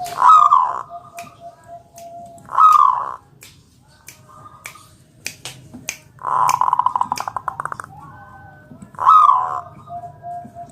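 Zebra dove (perkutut) calling: short, loud cooing notes near the start, a few seconds later and near the end, with a fast rolling trill of about a second and a half in the middle. Sharp clicks are scattered between the calls.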